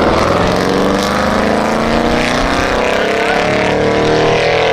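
Several truck engines running at once, their pitch rising and falling slightly as they rev.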